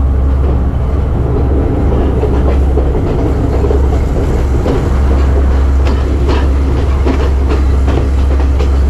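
Passenger train running along the line: a steady low rumble with irregular clacks and knocks of the wheels over the rail joints.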